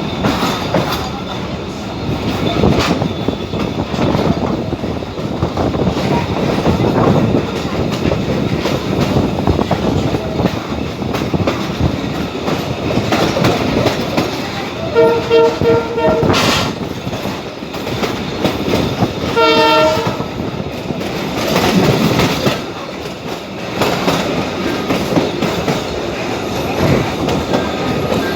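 Abu Qir commuter train running along the track with a steady rumble and wheel clatter. About halfway through, a horn sounds in two bursts of rapid short toots, a few seconds apart.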